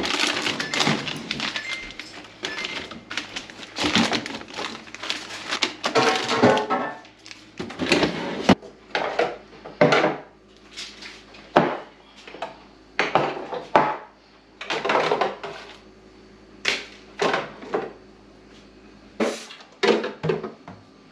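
Irregular clatter and knocks of plastic refrigerator drawer parts being handled, with faint music underneath.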